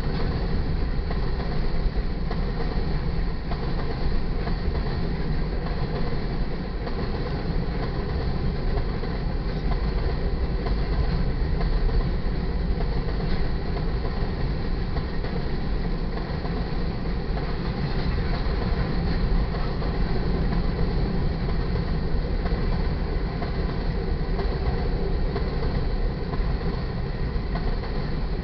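Freight cars of a potash train rolling past close by: a steady, unbroken rumble of steel wheels on rail with light clickety-clack.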